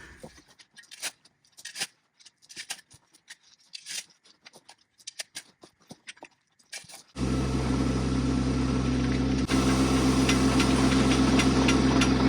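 Faint scattered clicks and knocks, then a tractor engine starts running abruptly about seven seconds in, steady and loud, stepping up slightly a couple of seconds later.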